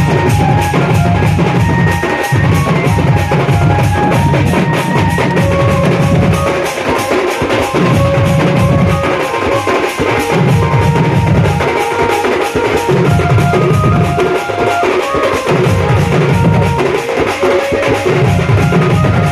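Sound band music: a loud drum beat with heavy bass drum and fast percussion strokes, under a lead melody line moving in steps. The bass comes in blocks of a couple of seconds with short breaks between them.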